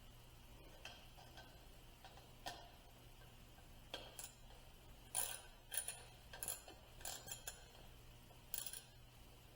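Irregular light clicks and clinks of small hard objects being handled, most of them between about four and nine seconds in.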